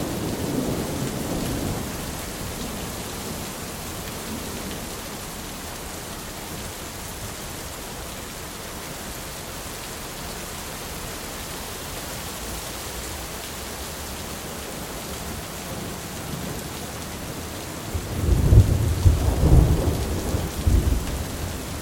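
Thunderstorm with steady rain falling throughout. A low rumble of thunder dies away in the first couple of seconds. About eighteen seconds in, a loud, rolling peal of thunder starts and keeps rumbling in waves through the last few seconds.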